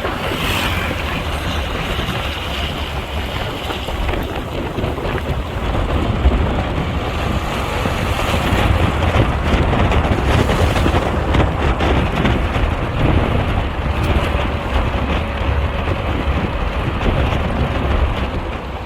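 Low rumble of a moving vehicle with wind buffeting the microphone, steady throughout.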